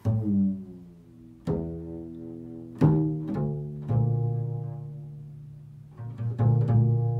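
Low-pitched plucked string notes, each struck sharply and left to ring and fade: a handful of spaced notes, then a quicker run of several notes near the end.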